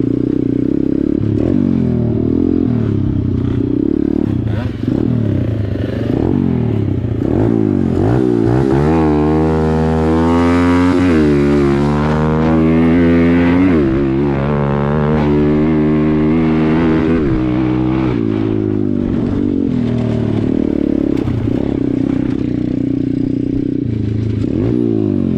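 Small dirt bike engine ridden hard, the revs rising and falling again and again as it shifts, climbing highest in the middle stretch.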